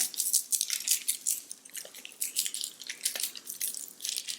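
Tajín chili-lime seasoning shaken from a plastic shaker bottle onto corn, a rapid crackly pattering of grains and rattling.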